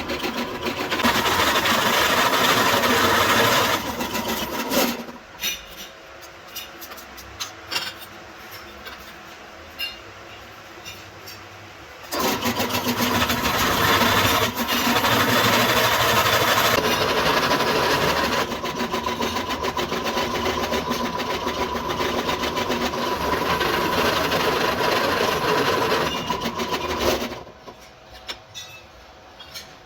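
An electric power tool, such as a grinder, running against a metal exhaust pipe part in two long runs with a steady whine. Scattered clinks of metal being handled fill the pause between the runs.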